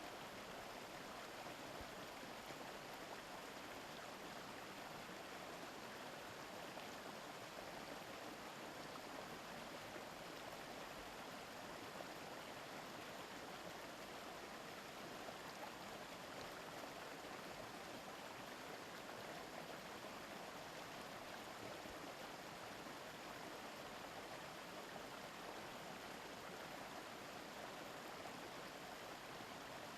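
A shallow river murmuring over rocks, a steady, even rush of water.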